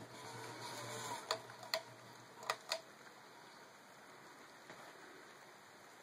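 Vintage Hunter Comfort Breeze ceiling fan: a low motor hum and faint whine from its worn bearings die away over the first seconds. Four sharp clicks come in two pairs, and the hum stops after the last one, leaving only faint even noise.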